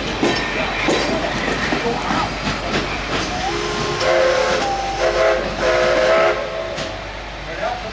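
A slow passenger train rolls past, its open cars clattering and clicking over the rail joints. About halfway through, a train whistle sounds a chord of several tones for a couple of seconds, broken into a few blasts.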